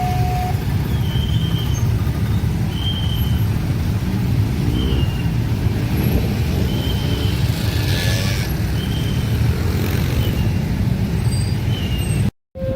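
A long train passing at speed, its wheels and carriages making a loud, steady rumble, with short high beeps repeating about once a second over it. The sound cuts off abruptly just before the end.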